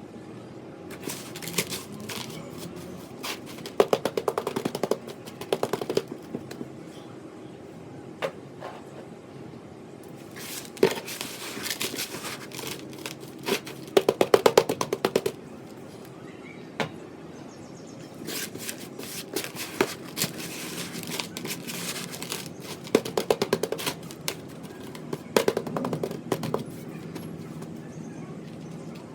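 Runs of rapid tapping on a gritty sand-and-cement shape, about seven bursts of quick taps each lasting a second or two, with short pauses between.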